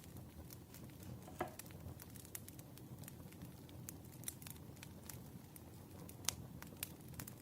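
Wood fire crackling, with irregular sharp pops and snaps over a low steady rumble; the loudest pops come about a second and a half in and again about six seconds in.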